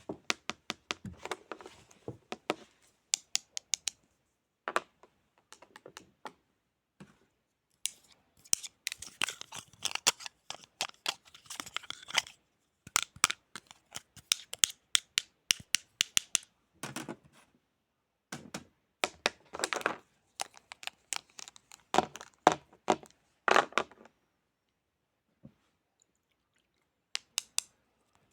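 Close-miked ASMR handling sounds: quick runs of crisp clicks and rustles in bursts of one to three seconds with short pauses between, thinning out to a few isolated clicks in the last few seconds.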